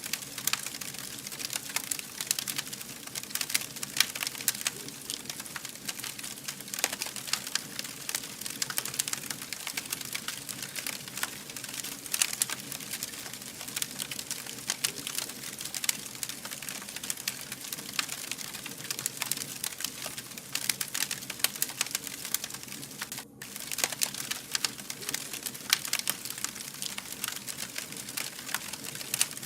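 Wood fire burning, with dense irregular crackling and sharp snaps over a soft steady hiss. The sound drops out for a moment about three-quarters of the way through.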